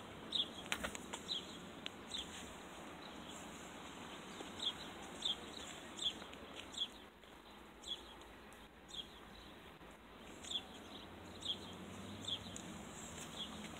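A small bird chirping: short, high chirps repeated irregularly about once a second over steady outdoor background noise, with a few sharp clicks in the first second or so.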